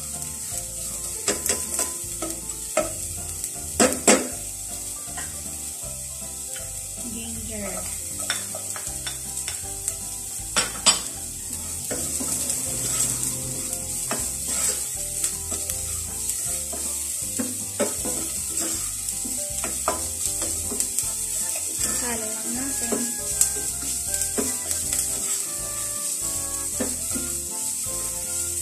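Chopped onion and ginger sizzling in hot oil in a pot while a spatula stirs them, scraping and knocking against the pot; the sharpest knocks come about 4 and 11 seconds in.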